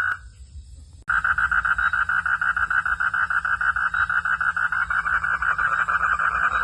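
Frogs calling at night in a fast, evenly pulsed trill of about ten pulses a second. The calling drops away for about the first second, then cuts back in abruptly with a click and carries on steadily.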